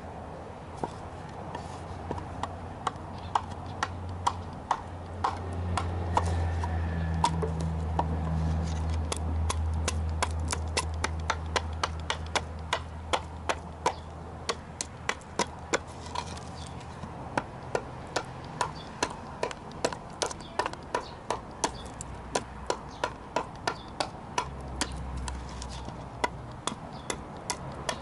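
Carving gouge cutting into wood in a steady series of sharp knocks, about two a second, as charred wood is carved away to expose the grain. A low rumble swells a few seconds in and fades by the middle.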